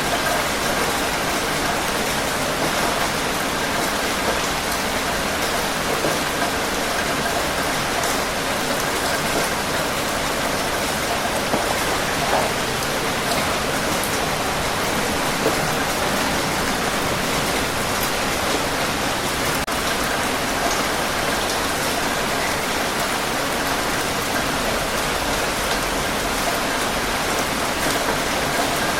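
Steady rain falling and pattering on surfaces, an even hiss with scattered small drop ticks.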